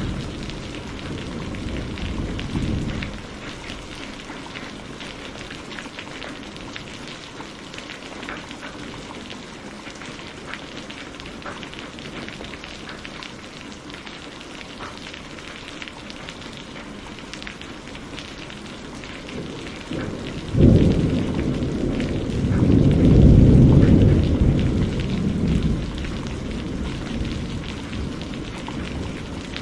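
Steady rain falling with scattered drop ticks, under a thunderstorm: a low rumble of thunder fades out in the first few seconds, then about twenty seconds in a sharp thunderclap sets off a loud, rolling peal that swells and dies away over some five seconds.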